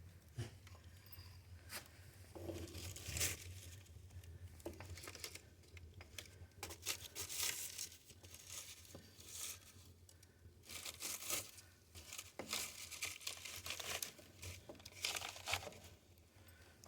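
Kindling, paper and cardboard fire in a wood stove crackling, with irregular small pops and snaps over a low steady hum.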